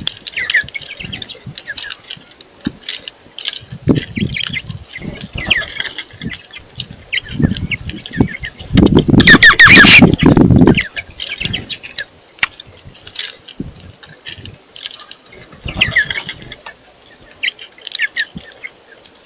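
Small birds chirping and squawking in many short, quick calls. About nine seconds in there is a loud rustling burst lasting about two seconds, which is louder than the calls.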